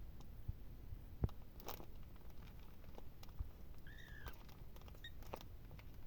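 A newborn kitten gives one short, high mew that rises and falls about four seconds in, and a tiny squeak about a second later, among faint rustling and soft knocks, the loudest a single knock just over a second in.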